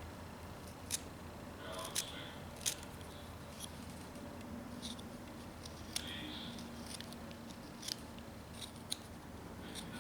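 Pocket knife blade cutting and scraping a small carved wooden bird, heard as scattered short, sharp clicks of the blade on the wood, several seconds apart, over a faint background.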